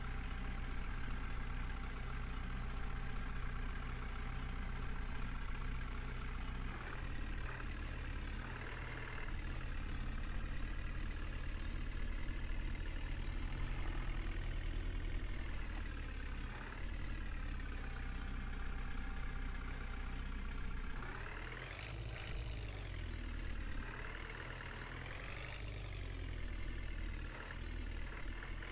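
JCB backhoe loader's diesel engine running and revving up several times as it works its hydraulics, with the pitch rising and falling again each time.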